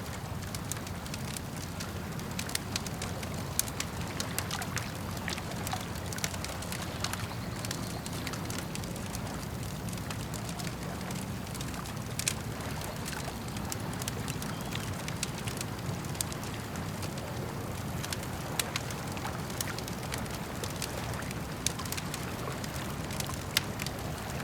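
Campfire crackling with frequent sharp pops and snaps over a steady low wash of lake water lapping.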